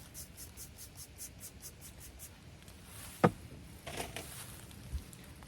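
A quick run of light scratching strokes, about five a second, then a sharp knock a little past the middle and softer knocks after it.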